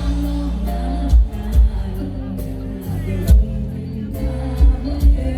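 Live band music in an instrumental passage between sung lines: held keyboard and bass notes with heavy drum hits.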